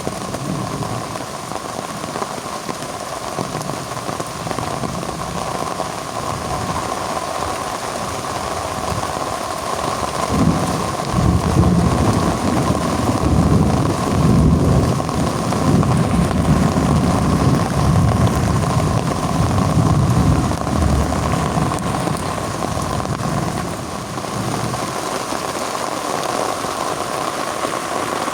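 Heavy rain falling steadily. About a third of the way in, a long, low rumble of thunder builds and rolls on for around fourteen seconds before fading.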